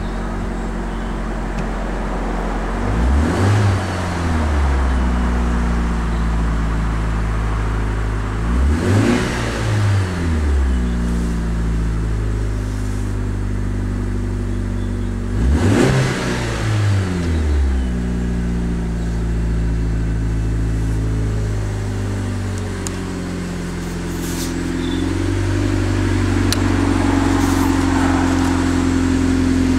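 Smart forfour Brabus engine through its stock exhaust, idling and blipped three times, about six seconds apart, each rev rising and dropping straight back. Near the end it is held at steady raised revs.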